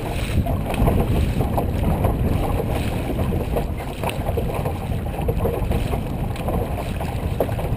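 Dragon boat under way with its crew paddling: rushing, splashing water with wind buffeting the microphone.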